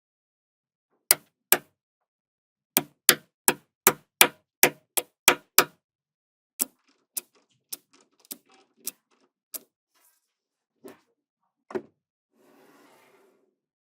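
Small magnetic balls snapping onto one another with sharp clicks: two, then a quick even run of about eight about half a second apart, then fainter scattered clicks, and a brief soft rustle near the end.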